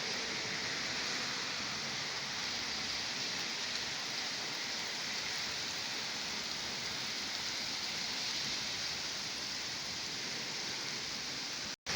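Rain from a thunderstorm falling steadily, an even hiss with no thunder heard. The sound drops out for a moment near the end.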